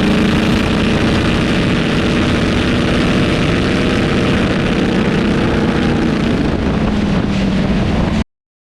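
Front-engine dragster's engine running hard at a nearly steady pitch, mixed with wind rush. The sound cuts off abruptly a little past eight seconds in.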